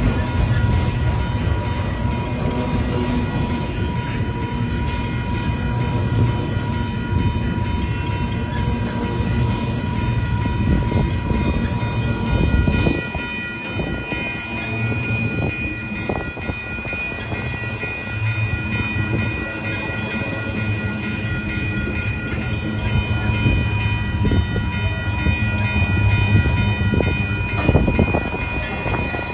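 Union Pacific intermodal freight cars loaded with truck trailers rolling steadily past at close range: a continuous rumble of steel wheels on rail with scattered clicks. Several thin, steady high tones run over the rumble.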